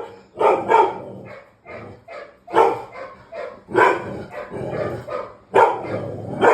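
A dog barking repeatedly in short, loud barks, a second or so apart, with quieter ones between.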